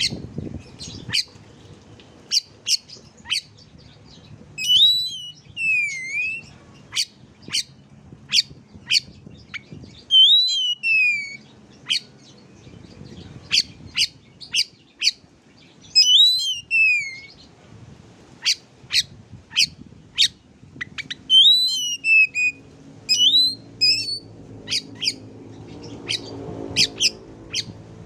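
Bird song: many sharp, quick chip notes, broken every few seconds by a slurred whistle that falls in pitch. It is the kind of song material played to set oriental magpie-robins (kacer) singing.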